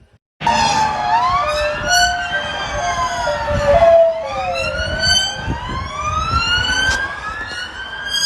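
Several emergency-vehicle sirens wailing at once, their pitches rising and falling and crossing over each other, over a low traffic rumble. They start abruptly about half a second in.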